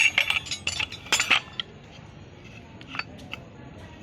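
Metal clinking and rattling in a quick cluster for about a second and a half, each hit ringing briefly, then a few single clicks.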